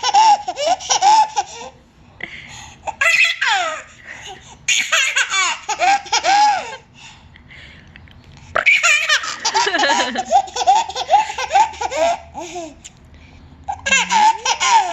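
A child laughing hard in several long bouts of rapid high-pitched 'ha-ha' pulses, broken by short pauses.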